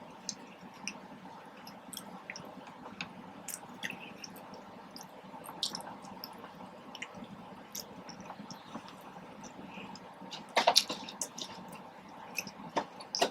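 Close-up wet chewing of a soft chicken street taco in a flour tortilla: squishy mouth sounds and small lip smacks, with a louder burst of smacking about ten seconds in.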